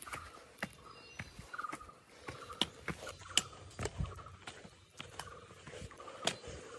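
A hiker's heavy breathing, puffing about once a second, with footsteps and the tap and scrape of a trekking pole on a dirt-and-root trail; a few sharp clicks stand out.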